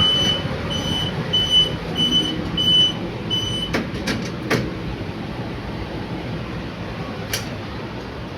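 A 2001 Otis goods lift sounding six short, high electronic beeps about every half second, followed by a few sharp mechanical clicks, over the car's steady low hum.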